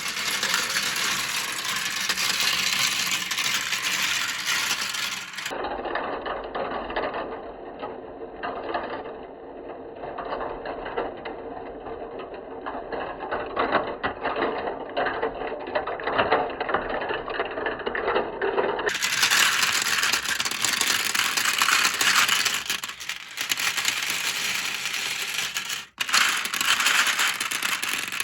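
Many marbles rolling and clattering down a plastic marble run, a continuous dense rattle of small hard clicks. For a long stretch in the middle the sound turns duller, then brightens again.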